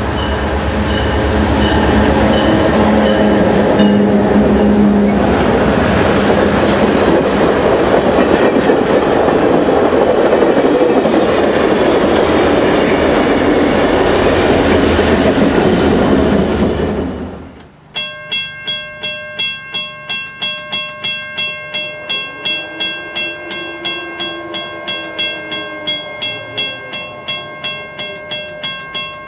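Passenger train led by a GP38-2 diesel locomotive passing close by, its Nathan P5A air horn sounding for the first few seconds, then loud engine and wheel noise as the locomotives and cars go by. About two-thirds through the sound cuts off suddenly, and a bell rings steadily at a little over two strokes a second, typical of a grade-crossing bell.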